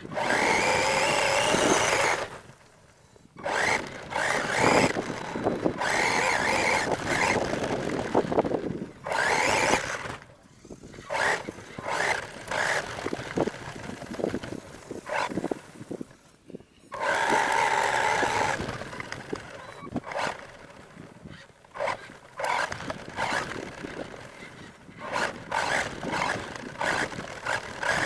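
R/C monster truck's motor whining in repeated bursts of throttle, rising and falling in pitch, with brief pauses where it stops.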